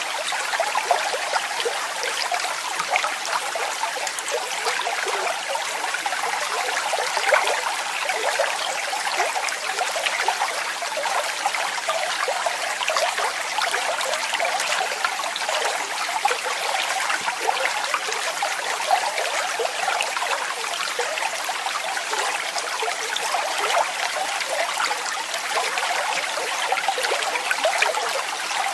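Waterfall: falling water splashing steadily, a bright, dense splash with little deep rumble.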